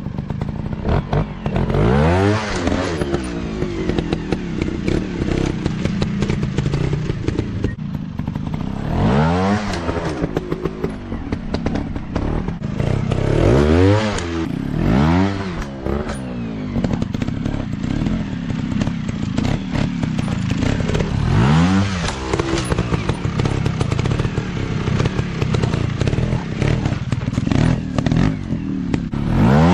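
Off-road dirt bike engines running hard with a steady rattle, rising and falling in pitch as the throttle is opened and closed several times.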